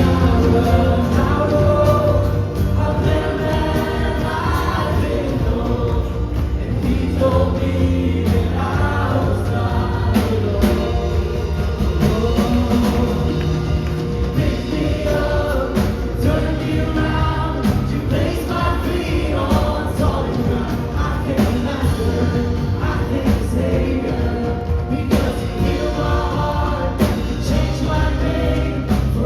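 Live gospel praise and worship song: a congregation and worship team singing together over a full band with bass and drums.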